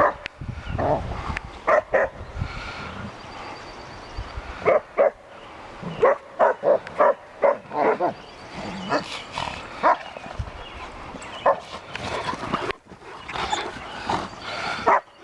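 Puppies barking and yipping at play: short, sharp barks in quick runs, busiest about six to eight seconds in.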